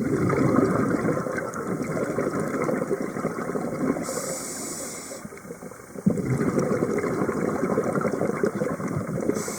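Scuba diver breathing through a regulator underwater: a few seconds of exhaled bubbles gurgling out, a short hiss of inhalation, then another long bubbling exhale.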